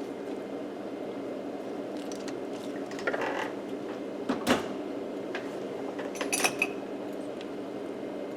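A few light clinks and knocks of tools and parts being handled on a workbench: one about three seconds in, a sharper one midway, and a short cluster near the end, over a steady low hum.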